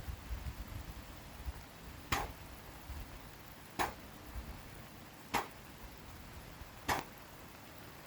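A person's short, sharp exhales, four of them evenly spaced about a second and a half apart, at the steady rhythm of exercise such as push-ups.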